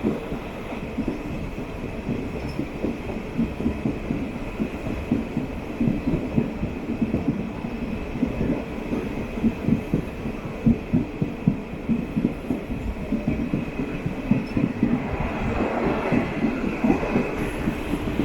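A DEMU (diesel-electric multiple unit) train running along the line. Its wheels knock and clatter over the rail joints in quick, irregular beats over a steady hum.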